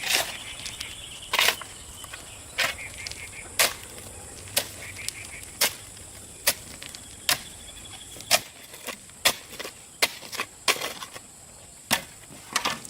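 A series of sharp single knocks, about one a second and somewhat irregular, like hand-tool strikes in construction work.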